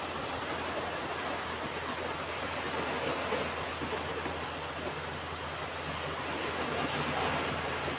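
Ocean surf washing onto a beach: a steady rushing wash of waves that swells slightly near the end.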